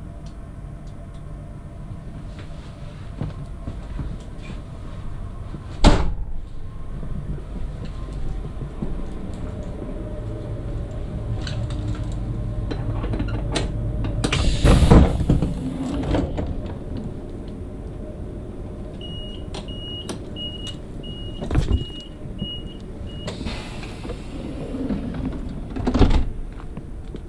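Class 69 electric multiple unit at a standstill, with a low rumble and several sharp clunks, a loud hiss about halfway through, and a run of about seven short high beeps a few seconds later.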